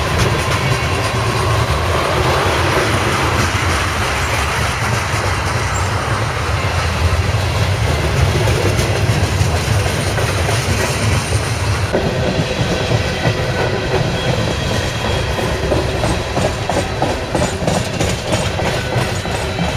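Freight train cars rolling past at speed, with a steady rumble and wheels clicking over rail joints. The sound changes abruptly about twelve seconds in.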